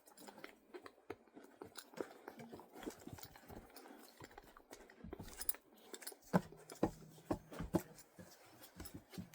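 Close-miked irregular taps and clicks, sparse at first and then denser and louder from about six seconds in.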